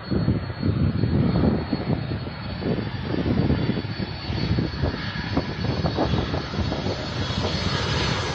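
Airliner engines on final approach, a steady noise whose high-pitched whine grows brighter as the plane nears, heard through gusts of wind buffeting a phone microphone.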